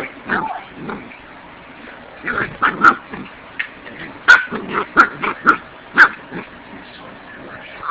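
Puppy giving a string of short, high-pitched yips and barks, starting about two seconds in and coming in quick clusters.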